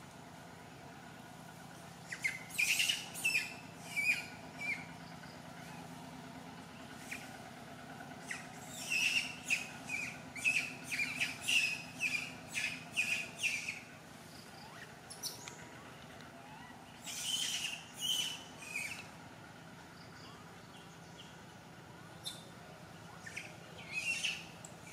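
A bird calling in runs of short, sharp chirps, about two or three a second. There are four runs, the longest lasting about five seconds.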